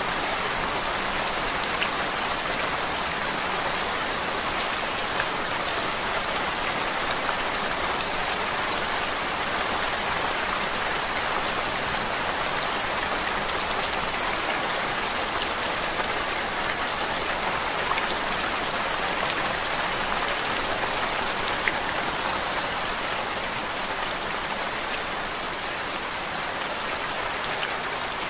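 Steady rain falling on a surface: an even hiss with fine drop ticks scattered through it.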